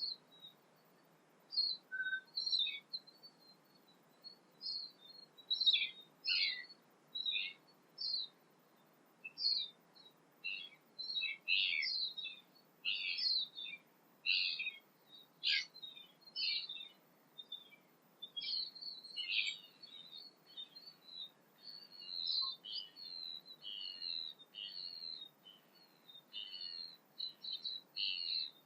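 Songbirds singing: a continuous run of short, high chirps and quick notes, several a second, over faint background hiss.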